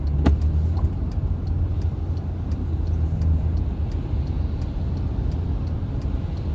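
Steady low rumble of engine and tyre noise inside a car driving on a snowy, wet expressway, with a brief sharp tick about a quarter second in.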